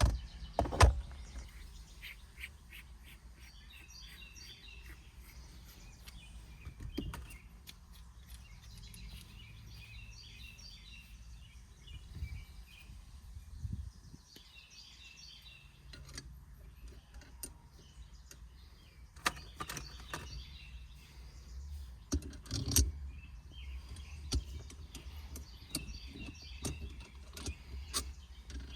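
A bird singing outdoors, a short burst of high chirps repeated about every six seconds, with a few scattered clicks and knocks throughout.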